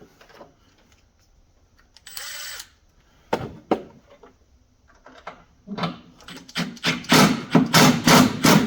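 Hand tool fastening a lawn tractor's ground wire: a few separate clicks, then from about six seconds in a fast run of sharp metal strokes, about three a second, getting louder.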